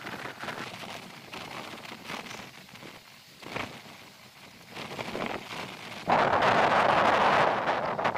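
Moving passenger train heard from outside its open coach door: a rushing, uneven noise of wheels on the rails and passing air. About six seconds in it turns suddenly much louder as wind buffets the microphone.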